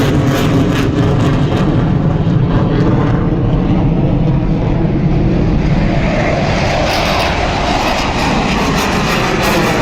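Military aircraft flying past, a loud steady rush of engine noise. Its hiss dulls about three seconds in and brightens again after about six seconds.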